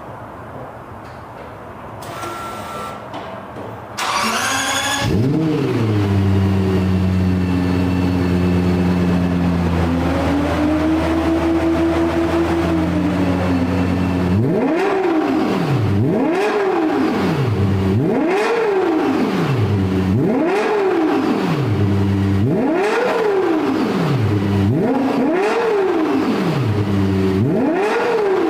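Lexus LFA's 4.8-litre V10 starting about four seconds in with a quick flare of revs, settling to idle, then rising slowly and falling back once. It then gives a series of sharp throttle blips, each rev rising and dropping quickly, about every one and a half to two seconds.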